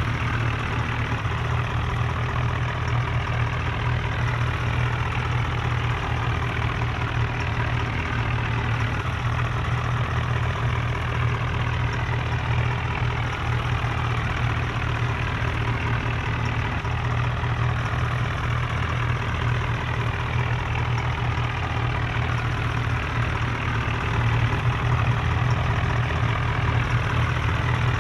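Tractor diesel engines running steadily, a dense low drone that gets slightly louder about four seconds before the end.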